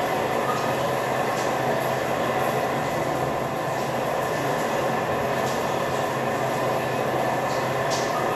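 Steady rumble and road noise of a semi-truck moving, heard from inside the cab, with a few faint ticks.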